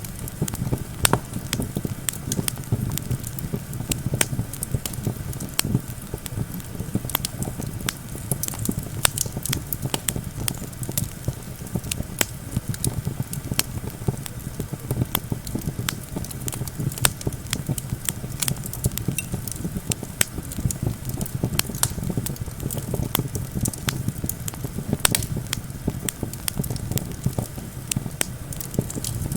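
Wood campfire crackling and popping with many irregular sharp snaps, over a steady low rumble of wind.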